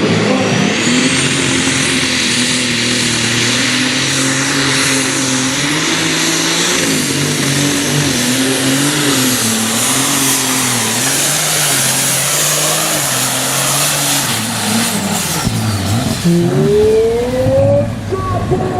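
Turbocharged pulling tractor engine running flat out down the track, with a high turbo whine that rises in the first second and holds, then falls away about 15 seconds in. Near the end the engine revs up and drops back a couple of times.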